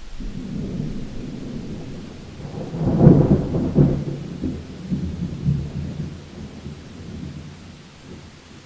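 A thunderclap over rain: a low rumble builds, cracks loudest about three seconds in, then rolls on and fades away.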